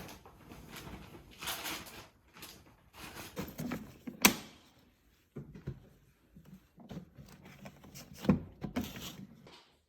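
Intermittent rustling and knocking of objects being handled, with one sharp click about four seconds in and a heavier thump a little past eight seconds.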